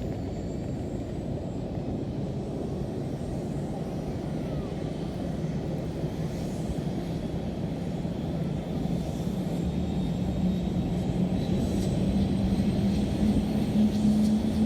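Airbus H125 helicopter's single turboshaft engine and rotor running up, a low steady rumble with a hum that rises slowly in pitch as the sound grows louder; a faint high turbine whine comes in near the end.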